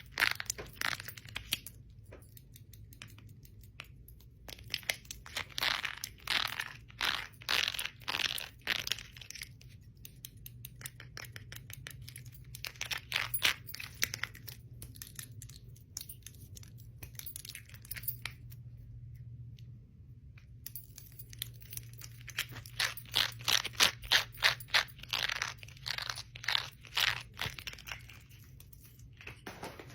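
Bangles and rings clicking and clinking against each other in rapid runs of sharp clicks, in bursts of a few seconds separated by short pauses.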